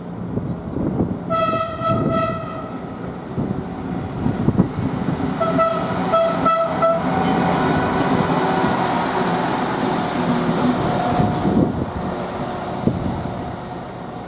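Train horn sounding a blast about a second in, then a quick series of short blasts about six seconds in, as the train rolls past with wheel and rail noise that builds to a peak near ten seconds and then fades.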